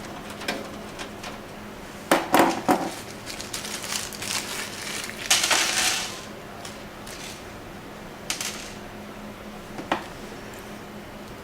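Metal screws and a screwdriver clinking and knocking against a steel PC case while the SMPS power supply is screwed into place: a cluster of louder clatters about two seconds in, a short rattle around five seconds in, and single clicks later.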